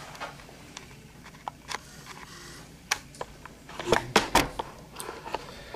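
Scattered sharp clicks and light knocks from small objects being handled, with a quick cluster of louder clicks about four seconds in.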